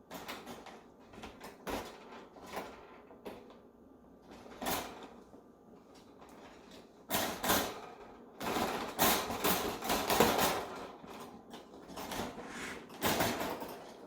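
Knocks, clicks and rattles of bird-cage parts being handled and pushed into their corner joints, a few separate knocks at first, then busier, louder clattering from about halfway through.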